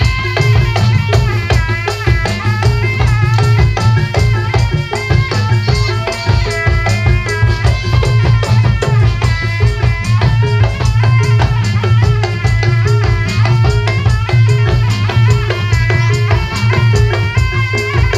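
Live barongan troupe music: fast, dense drumming over a heavy steady bass beat, with a wavering melody line above it.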